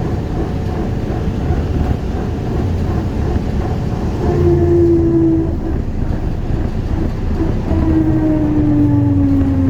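ZiU-682G trolleybus under way, with a steady ride rumble. A traction-motor whine comes in about four seconds in, then sounds again and falls slowly in pitch near the end as the trolleybus slows.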